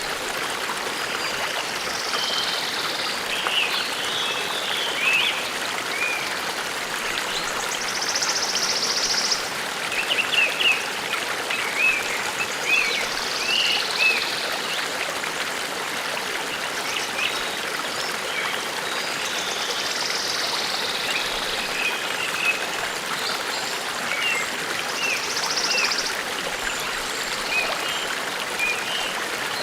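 A forest stream babbling steadily, with small gurgles and splashes of water over it. High bird trills come through now and then.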